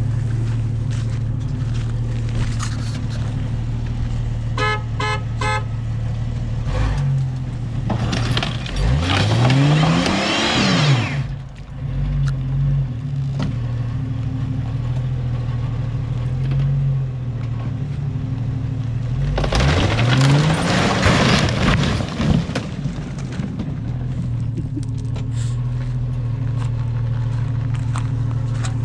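Vehicle engine running steadily, with a quick run of about four short horn toots about five seconds in. Twice the engine revs up hard, its pitch climbing steeply under a loud rushing noise, each time for about three seconds.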